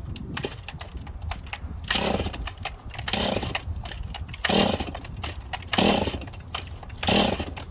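Stihl 026 chainsaw being pull-started cold: five hard yanks on the recoil starter cord, each a short whirring burst, about a second and a half apart. The engine turns over without catching.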